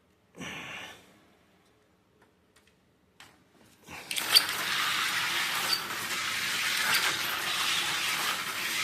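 Slot car, an old Scout diecast converted to run on a slot track, running around the oval: a short burst and a few clicks, then from about four seconds in a steady whirring hiss as it laps.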